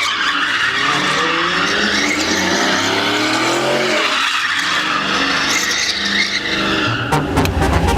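Performance truck's engine revving hard in two long rising sweeps, with tyres squealing and skidding, then settling to a deep rumble near the end.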